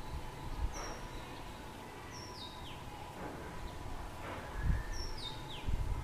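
A small bird's high, thin whistled calls, three in all, each stepping down in pitch and ending in a short downward slide. A faint steady whine runs underneath, with low rumbles near the end.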